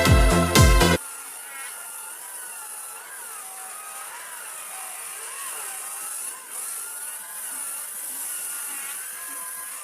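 Electronic music with a beat that stops about a second in, then a faint, steady whir from a small motor, its pitch wavering up and down.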